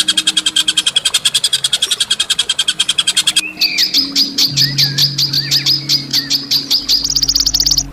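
Songbird calls recorded for masteran: fast rattling trills of evenly repeated sharp notes, about ten a second. About three and a half seconds in, the first trill gives way to another at a different pitch, and near the end a higher, buzzier trill follows, over a low steady drone.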